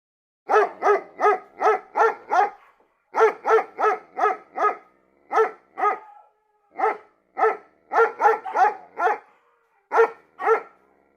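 A dog barking over and over, in quick runs of two to six barks at about three a second, with short pauses between the runs.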